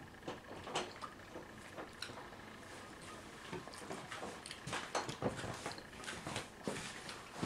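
Chewing and lip-smacking of someone eating a sandwich on a soft bread roll: a string of short smacks and clicks, busier in the second half.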